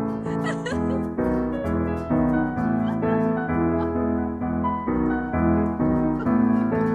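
Background piano music with a regular rhythm of sustained notes, with a short gliding sound about half a second in.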